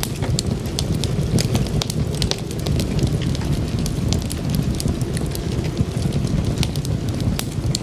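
Wood fire crackling, with frequent irregular sharp pops and snaps over a steady low rush of flames.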